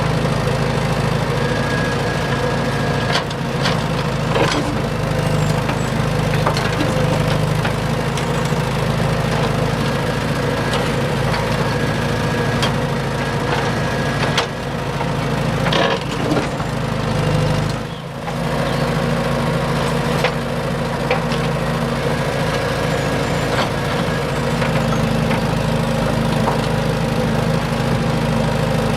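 A small motor running steadily, with scattered sharp clicks and knocks like wood or hard material being struck or snapped.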